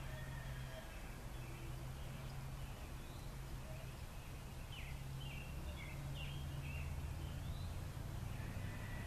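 Faint birds chirping over a steady low hum, with a quick run of short chirps about five to seven seconds in.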